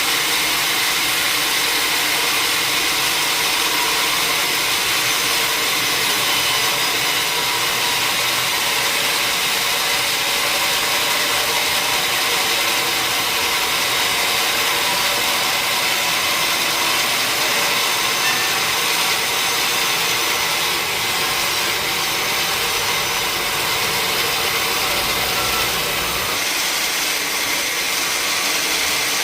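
Sawmill saw machinery running steadily: a loud, even mechanical noise with a constant hum and no breaks.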